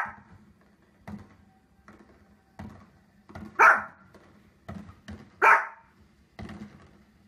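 Small fluffy dog barking sharply at fireworks on the television: three loud barks, one at the start, one about three and a half seconds in and one about five and a half seconds in, with fainter thumps in between.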